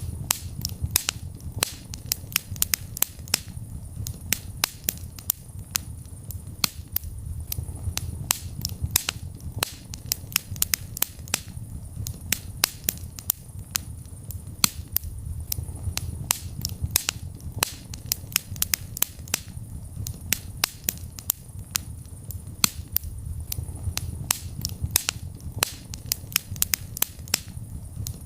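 Wood fire burning in a fireplace: a low rumble of flames with sharp, irregular crackles and pops several times a second.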